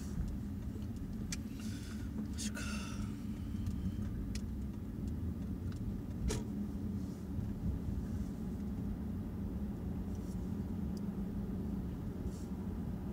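A steady low rumble and hum like a car running, with a few scattered sharp clicks. The loudest click comes about six seconds in.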